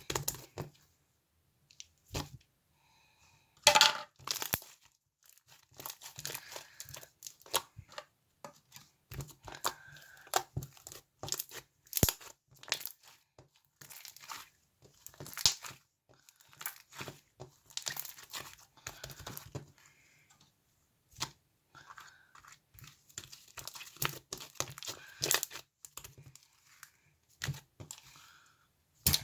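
Irregular crinkling, tearing and crackling handling noises, in short uneven bursts with brief pauses between.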